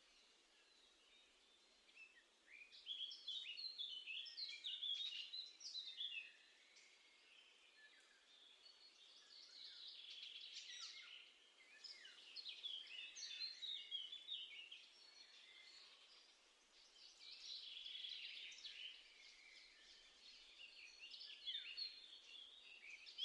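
Small songbirds at a feeder chirping and twittering in several bouts of quick, high calls, with quieter gaps between.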